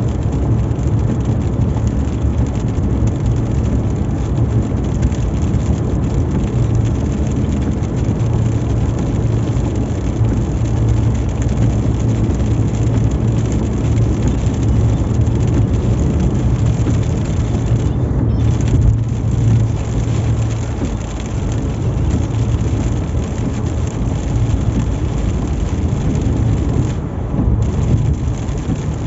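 Steady road and engine noise heard from inside a car driving in heavy rain, with rain on the car's body mixed in. A low drone runs under it and weakens about two-thirds of the way through.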